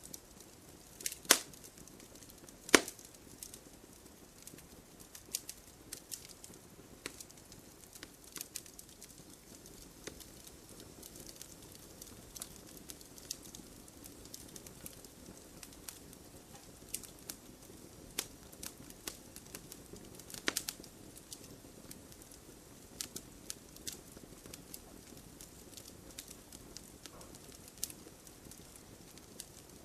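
Campfire crackling: a low steady hiss of burning wood with frequent sharp pops, the loudest about a second in, near three seconds and again around two-thirds of the way through.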